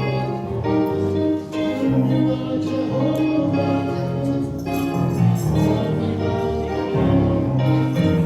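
Gospel music in a church: sustained organ-like keyboard chords over a steady bass, with singing.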